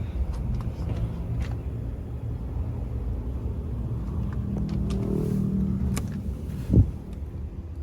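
A vehicle engine running with a steady low rumble, swelling louder for about a second and a half some five seconds in. Near the end comes one short, loud thump.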